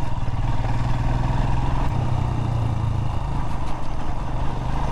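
Royal Enfield Himalayan's single-cylinder engine running steadily while being ridden along a rough dirt road.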